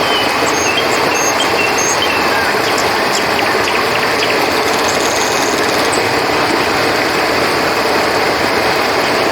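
River water flowing, a steady dense rush. Short, high, faint chirps sound over it through the first half or so.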